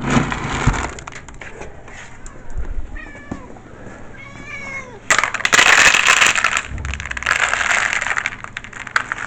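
Cats meowing at feeding time: two meows about three and four and a half seconds in, followed by two loud stretches of noise in the second half.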